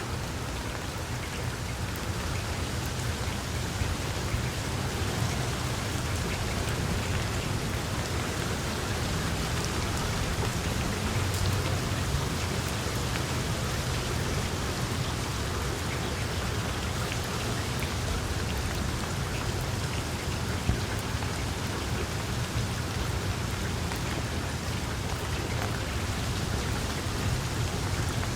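Steady rain falling, with a low rumble running underneath that swells slightly about a third of the way in.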